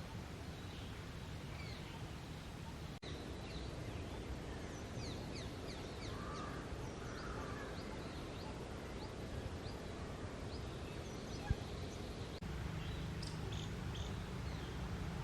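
Wild birds calling in runs of short, sharp, high notes over a steady low background hum, with a single sharp click about eleven and a half seconds in.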